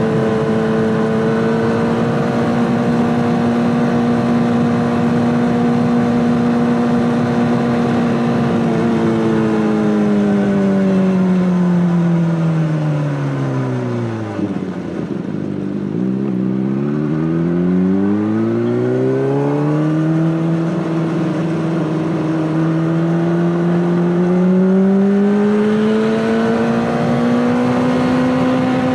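Honda CBR600RR inline-four engine through an Akrapovic exhaust, held at steady high revs. About a third of the way in the revs fall smoothly to a low, near-idle note, then climb back up, level off, and rise again near the end.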